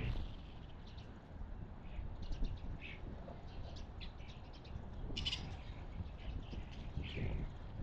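Wild songbirds chirping in short, scattered high notes, with a louder cluster of chirps about five seconds in, over a low background rumble.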